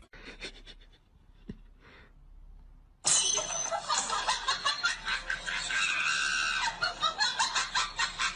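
A few faint clicks, then about three seconds in, laughter starts suddenly and goes on in quick, choppy bursts.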